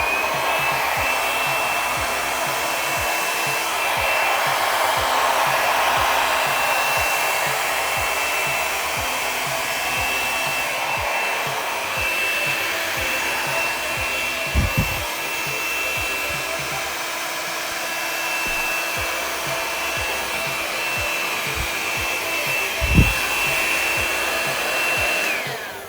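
Mini travel hair dryer with a diffuser blowing steadily, its motor giving a high, even whine over the rush of air. It spins up to speed at the start and cuts off near the end. There are two brief low thumps partway through.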